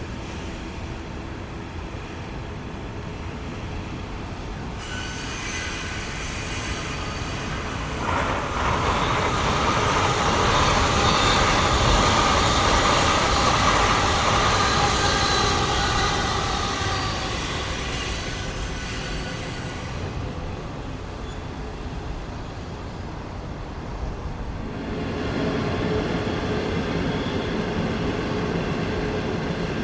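A train passing on the track: the rumble builds about eight seconds in and is loudest for several seconds, with a steady high whine over it, then fades. The sound of rail traffic rises again near the end.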